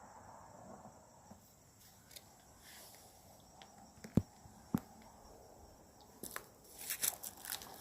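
Footsteps crunching through dry leaf litter and twigs in woodland: two sharp cracks about four seconds in, then a quick run of crunching steps near the end. Underneath is a faint steady high drone of insects.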